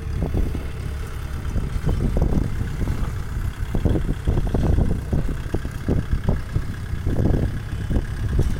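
Kubota farm tractor's diesel engine running, a continuous low rumble that swells and dips irregularly.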